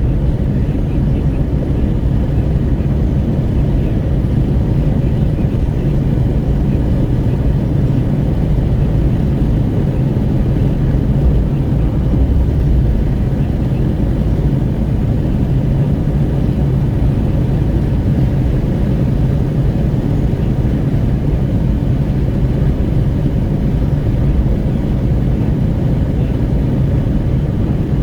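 Steady wind rush at the window of a Renault Kwid 1.0 cruising on the highway, over the low drone of its engine and tyres on the road.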